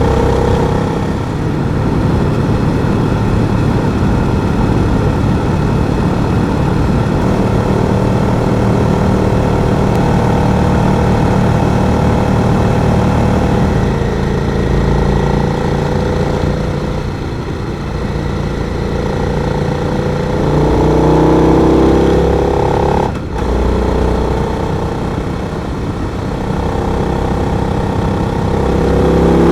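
Adventure motorcycle engine running under way, a steady drone that rises in pitch as the bike accelerates about two-thirds of the way in and again near the end.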